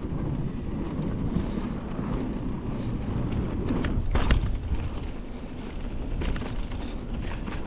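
Mountain bike riding down a dirt trail: wind buffeting the microphone and tyres rumbling over the ground, with scattered rattles and clicks from the bike and a sharper knock about four seconds in.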